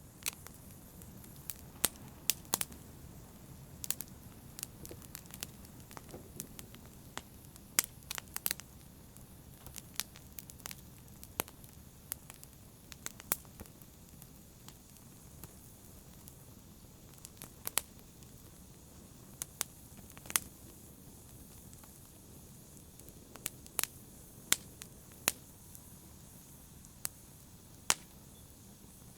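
Wood fire crackling in a fireplace: irregular sharp pops and snaps, several a second at times, over a low steady rush of the flames.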